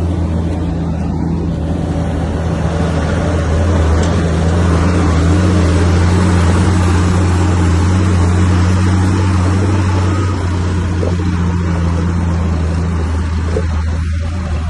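Diesel engine of a heavy earthmoving machine running with a deep, steady hum, getting louder for several seconds in the middle as it works harder, then easing.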